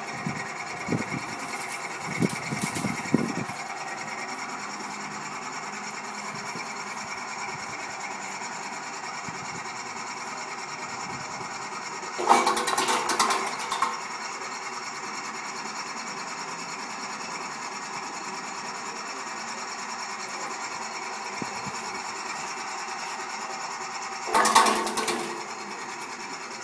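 Electric shallot-slicing machine running with a steady motor hum. It gets louder twice, for a second or two each time, about halfway through and near the end.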